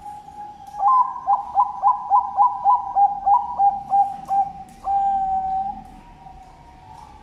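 Zebra dove (Bangkok-line perkutut) cooing: a run of about a dozen quick rolling notes, roughly four a second, ending in a longer held note about five seconds in.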